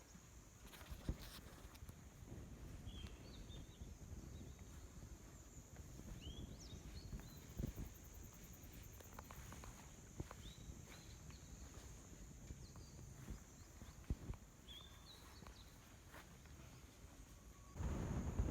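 Faint campsite ambience: a steady high insect drone with a bird's short chirping calls, about five of them spread out, and a few light knocks. Just before the end a louder rushing noise sets in.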